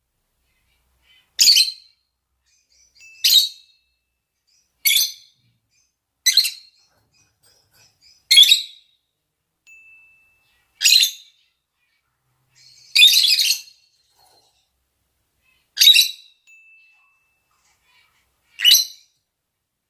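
Lovebirds (peach-faced and Fischer's) giving loud, high-pitched single calls, nine in all at roughly two-second intervals with silence between, one of them longer about two-thirds of the way through. These are their mating calls.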